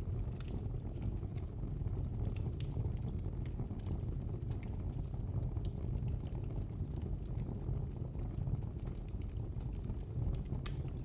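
Wood fire crackling: scattered sharp pops and snaps over the steady low rumble of the burning.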